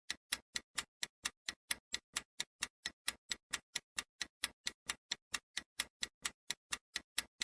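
Clock-ticking countdown timer sound effect: steady, even ticks about four and a half a second, marking the time given to answer a quiz question.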